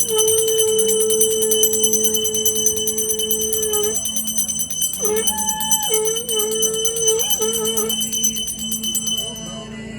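A small bell rung rapidly and continuously, over a long held tone that breaks into shorter notes about halfway through.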